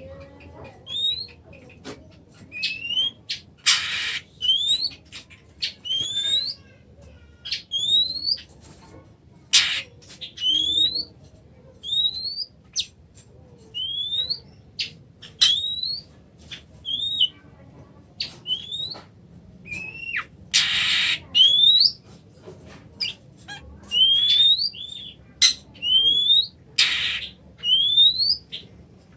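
Oriental magpie-robin (kacer) calling: a short rising whistle repeated about once a second, broken four times by a harsh rasping call.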